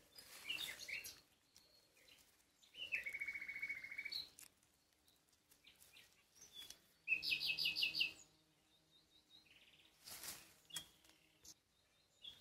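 Songbirds calling in short separate phrases: a few chirps near the start, a fast trill around three seconds in, and a quick run of bright notes around seven seconds in. A brief rustle comes near ten seconds.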